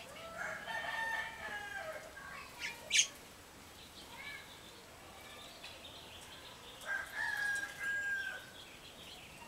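A rooster crowing twice: a long, held crow that dips at the end, then another about seven seconds later. A single sharp click falls between the crows, and a few small birds chirp faintly.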